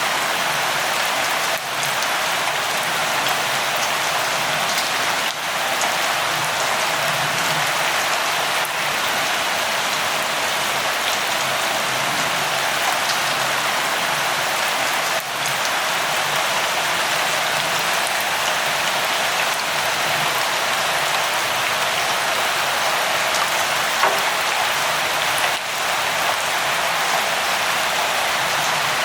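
Steady rain falling, an even hiss with little low rumble, briefly dipping in level a few times.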